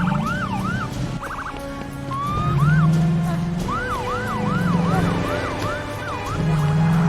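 Several emergency-vehicle sirens sound over one another, wailing up and down in repeated sweeps, with short bursts of a rapid pulsing warble. A low droning tone swells in and fades out several times beneath them.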